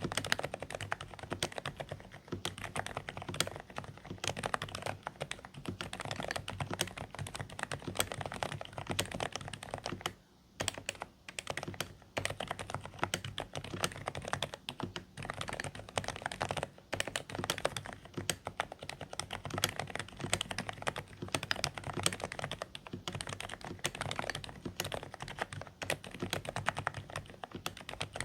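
Continuous typing on a Dareu A104 Pro mechanical keyboard fitted with low-noise silent beige switches: a dense run of quiet, somewhat muffled key clicks, with a brief pause about ten seconds in.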